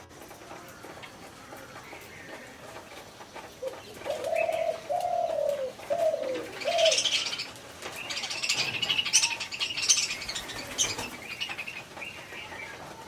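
A pigeon cooing: four short notes, each falling slightly in pitch, about four seconds in. It is followed by several seconds of higher, scratchy bird sound, loudest around nine to ten seconds in.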